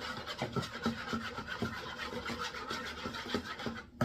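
Stirring seasonings into yeasted water in a mixing bowl: a utensil scraping round the bowl in quick, repeated strokes, about three or four a second.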